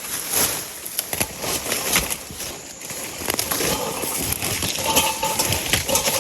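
Footsteps crunching through dry leaves and twigs on a rainforest floor, an irregular run of crackles and snaps from walking. A short tonal call sounds twice near the end.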